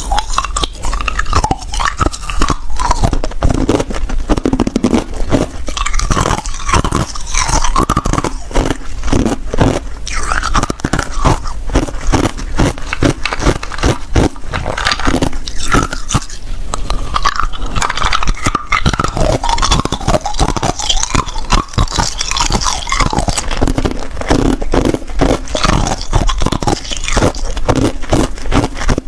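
Hard ice being bitten and chewed close to the microphone: rapid, irregular loud crunching and cracking, many crunches a second without a break.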